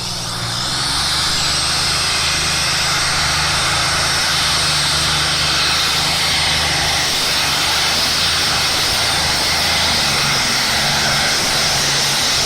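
A tractor-pulling machine's engine running flat out under load: a loud, steady engine noise with a heavy hiss and a high whine that rises at first, then holds.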